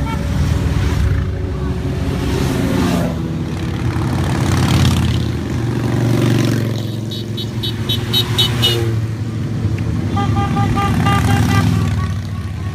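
A procession of motorcycles riding past, engines running and revving as they go by. Partway through there is a rapid high-pitched beeping, and later a held horn-like tone over the engines.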